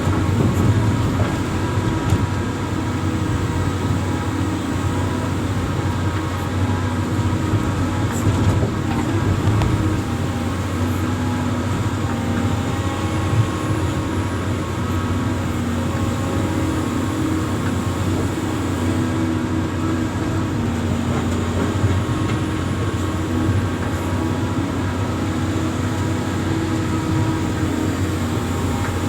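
Amphibious excavator's diesel engine running steadily, a low even hum with no change in pace.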